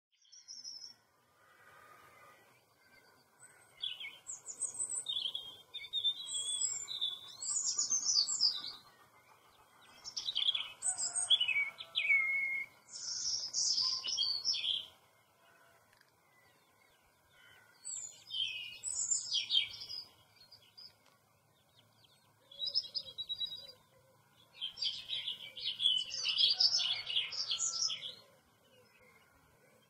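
Small songbirds chirping and warbling in high-pitched phrases a few seconds long, broken by short pauses, over a faint low background hum.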